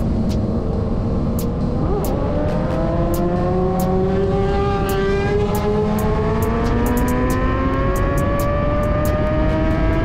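Kawasaki Ninja sport bike's inline-four engine under way, its pitch climbing slowly and steadily as it pulls higher in revs, over a deep, even rush of wind noise.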